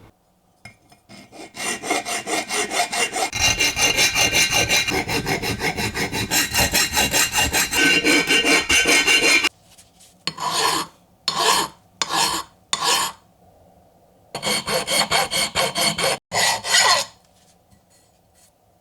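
Hand abrading of a metal meat-chopper part to prepare it for paint: a long run of quick back-and-forth scrubbing strokes, then four slower single strokes, then another short quick run.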